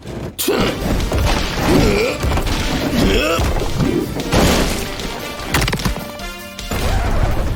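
Cartoon sound effects of a landslide: rocks crashing and rumbling with repeated impacts, over background music, with a few short vocal cries.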